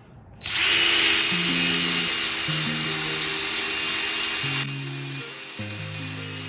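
Background music plays throughout. A power tool runs with a loud, steady hissing whir from about half a second in, then cuts off abruptly after about four seconds.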